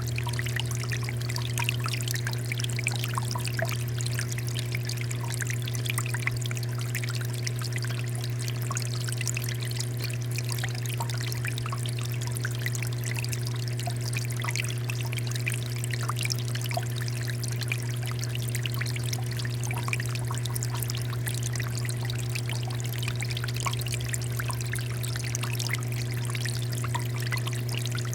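Water fountain running: a continuous stream of water pouring and trickling, with a steady low hum underneath.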